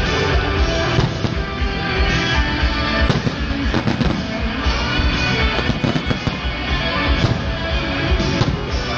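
Fireworks going off with several sharp bangs over loud music playing throughout.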